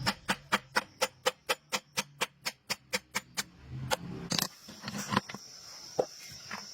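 Sharp, evenly spaced taps or ticks, about five a second for some three and a half seconds, then slower, irregular ones.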